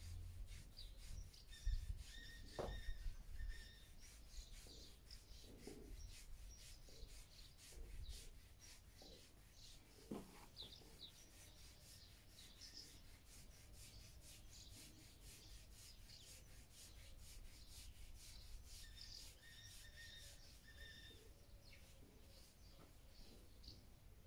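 Faint birdsong: small birds chirping, over a fine rapid ticking. A few low thumps come in the first four seconds and once about ten seconds in.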